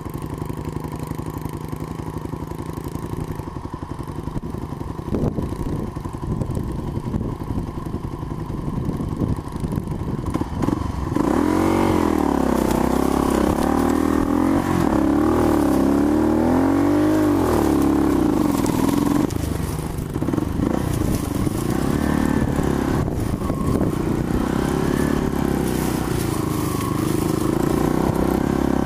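Small dirt bike engine running and revving. The pitch rises and falls as the throttle opens and closes, getting louder and closer about eleven seconds in, with a brief drop around two-thirds of the way through.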